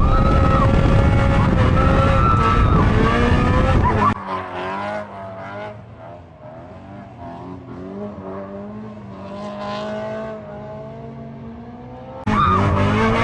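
BMW E92 M3's V8 engine at high revs with tyres squealing in a drift. About four seconds in it drops suddenly to a quieter, steady lower engine note, then comes back loud at high revs near the end.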